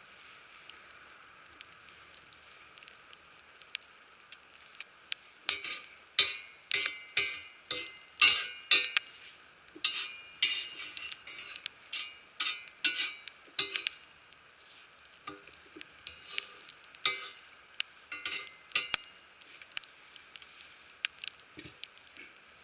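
Food sizzling on an iron griddle plate, with a quick run of scraping and tapping strokes of a metal utensil against the plate through the middle stretch.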